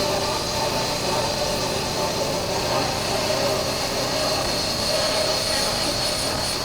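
Honda CB400X's parallel-twin engine running at a steady cruise, with wind rushing over the chest-mounted camera's microphone.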